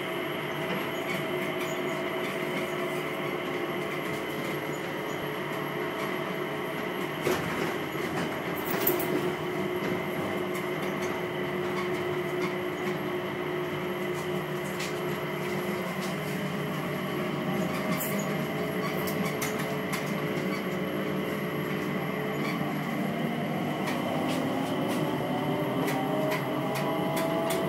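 Interior running noise of an electric metro train: a steady rumble of wheels on rail with a motor whine. A couple of sharp clicks come about a third of the way in. Near the end the whine rises in pitch as the train speeds up.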